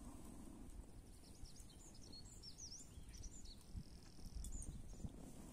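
Faint bird song: a quick run of high chirps and sweeping whistles lasting about two seconds, over a low steady rumble.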